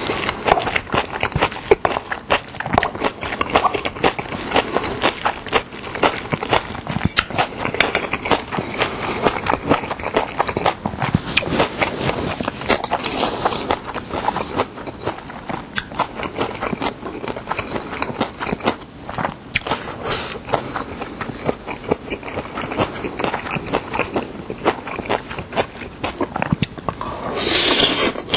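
Close-miked chewing of a mouthful of young summer radish kimchi bibimbap: dense, irregular wet mouth clicks. Near the end comes a slurp lasting about a second as a chopstick-load of the greens is sucked into the mouth.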